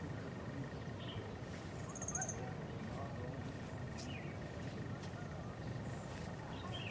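Quiet outdoor ambience over a low, steady rumble, with a few short, scattered bird chirps, one high chirp about two seconds in and another about four seconds in.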